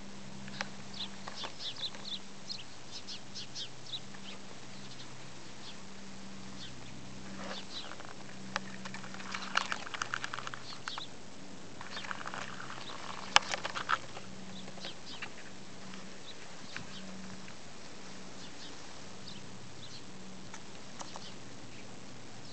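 Baby bird peeping in short runs of thin, high chirps, with a denser burst of lower calls from a rooster in the middle and one sharp tap a little past halfway. A faint low hum sits underneath.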